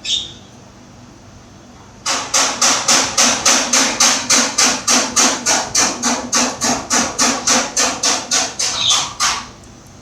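A pitta (paok) giving a rapid, even series of loud harsh calls, about four a second, for some seven seconds beginning about two seconds in, after one brief high note at the start.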